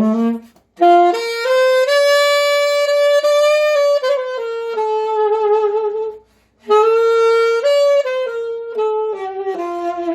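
Saxophone playing a slow melodic phrase. It holds long notes that step up and down, some of them with vibrato, and breaks for a breath about six seconds in.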